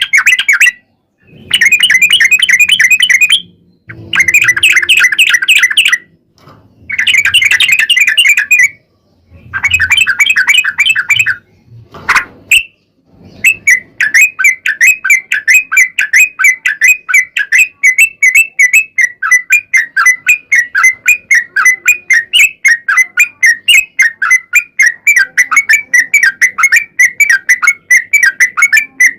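Yellow-vented bulbul (trucuk) song: several bursts of fast chattering notes with short gaps between them, then from about halfway one long, unbroken rapid trill, the 'long roll' used as a lure call to set other bulbuls singing.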